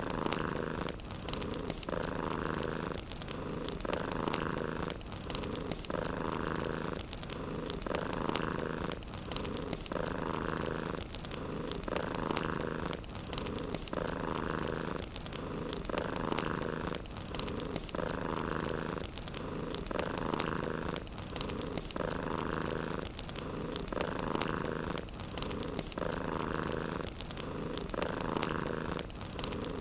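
Domestic cat purring steadily. The purr swells and eases about once every two seconds, with each breath in and out.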